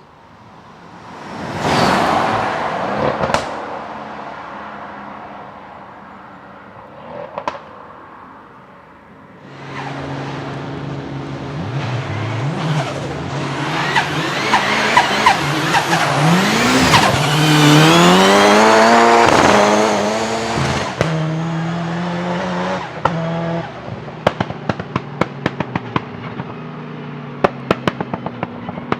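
A car engine: a loud pass about two seconds in, then revs held and blipped with the pitch climbing and falling, settling to a steady idle broken by rapid sharp exhaust pops and crackles near the end.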